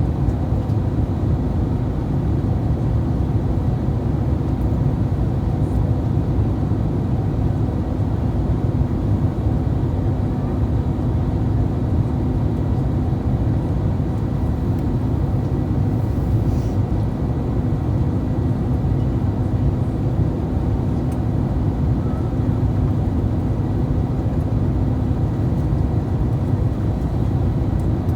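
Cabin noise inside an Airbus A321-231: a steady low rumble with an even hum from its IAE V2500 engines.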